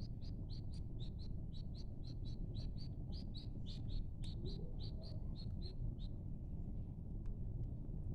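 A bird calling a rapid, even series of short high chirps, about four a second, that stops about six seconds in, over a steady low rumble.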